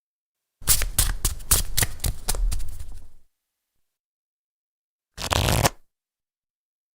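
A deck of playing cards being shuffled: a fast run of flicking clicks for about two and a half seconds, then a short dense burst of card noise about five seconds in.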